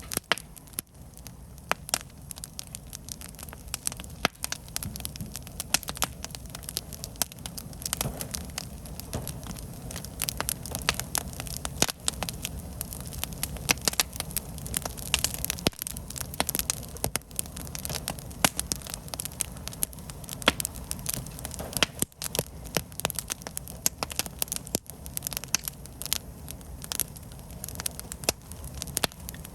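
Wood campfire burning, the firewood crackling and popping in many sharp irregular snaps over a low steady rumble of the flames.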